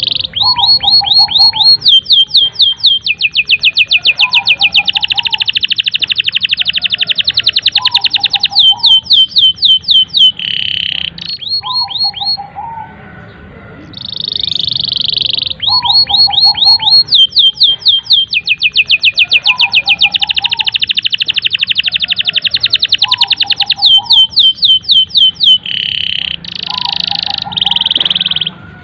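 Domestic canary singing a long song of rapid trills and rolling phrases. The same song sequence plays twice in a row, the second time starting about halfway through, and a lower chirp recurs every couple of seconds beneath it.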